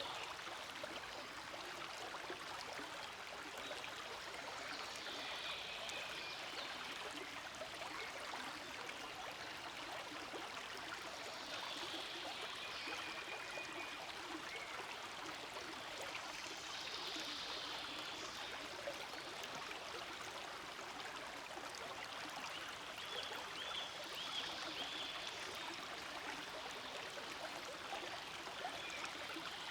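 Forest stream flowing steadily, a constant rushing and gurgling of water.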